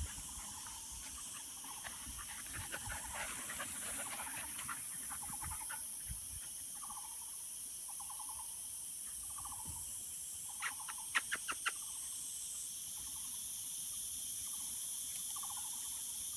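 A bird repeats a short call about every second and a half over a steady high hiss. A quick run of sharp clicks comes about eleven seconds in.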